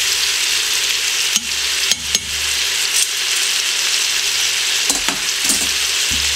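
Chicken thighs, sliced onion and garlic sizzling steadily in oil in an Instant Pot's stainless steel inner pot on the sauté setting, as the onions start to turn translucent. A few short clicks of metal tongs against the pot come about a second and a half in and again near the end.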